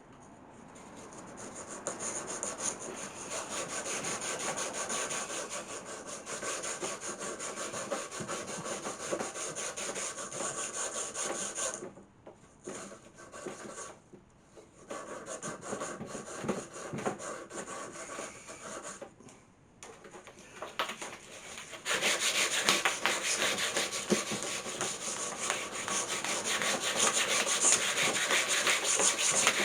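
Hand sanding in the grooves of old pine table legs with sandpaper on a thin strip of wood, a continuous scratchy back-and-forth rubbing. It pauses briefly a few times and gets louder about two-thirds of the way through.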